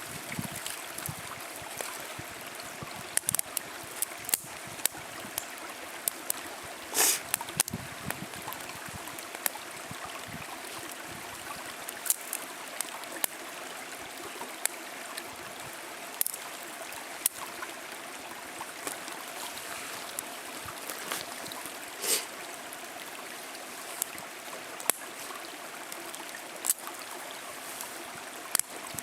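Wood fire burning in a wire-mesh fire stand, crackling with irregular sharp pops over a steady rushing hiss; a couple of louder pops ring briefly.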